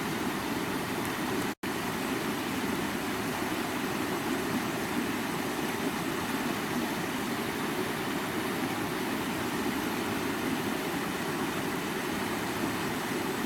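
Stream water flowing steadily, a continuous low rushing, with a split-second total dropout about a second and a half in.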